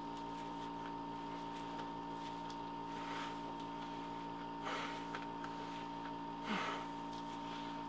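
Steady electrical hum, with a few soft crunching chewing sounds as grilled rockfish is eaten, about three, five and six and a half seconds in.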